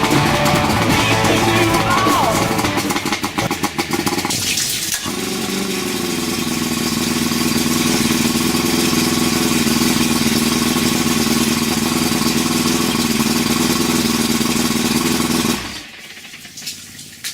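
Four-cylinder outboard motor running steadily on its first test start, cooled by a garden hose on flush muffs, then shut off suddenly near the end.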